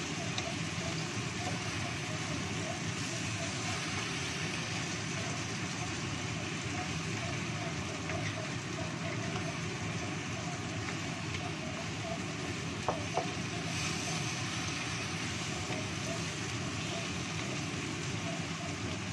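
Fried tilapia and green tomatoes sizzling steadily in a wok over a gas burner as a wooden spatula stirs them. Two sharp knocks of the spatula against the pan come about two-thirds of the way through.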